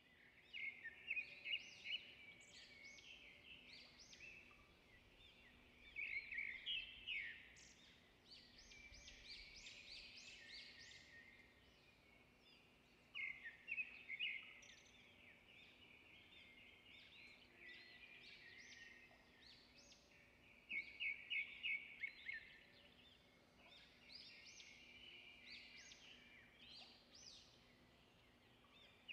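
Small birds chirping and singing in quick runs of high notes, in bouts of a few seconds with quieter gaps between.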